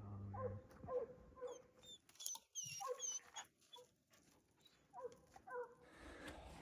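Faint hounds baying and yelping in short calls, with a lull in the middle: a pack of bear hounds running a jumped bear.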